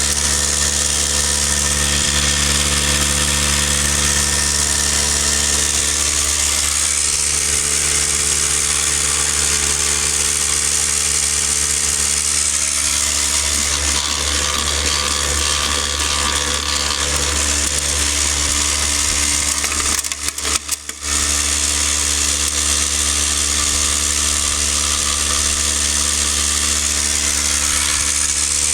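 Tornado F2 electric non-air drywasher running, its electric vibrator motor giving a steady buzzing hum with a hiss over it as it shakes the riffle tray. The sound dips briefly about twenty seconds in, then carries on as before.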